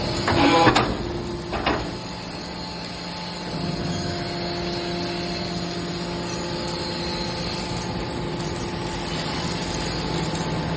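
Scrap metal baler running: a few metal clanks and a scrape in the first two seconds, then a steady machine hum from its hydraulic power unit, which grows slightly louder about three and a half seconds in.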